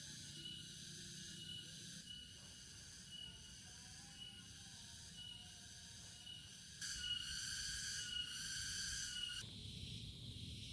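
A chorus of insects trilling, with one short high chirp repeating about once a second; a louder pulsing buzz joins for about two and a half seconds near the end. A low steady rumble lies underneath.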